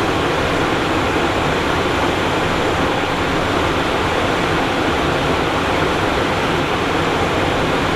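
Steady rush of airflow and engine noise inside the cockpit of a Cessna Citation Encore jet in flight, an even noise that holds a constant level.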